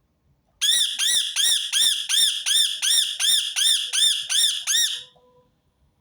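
Rose-ringed (ring-necked) parakeet giving a fast series of about a dozen loud calls, close to three a second, each note rising and then falling in pitch; the series stops about a second before the end.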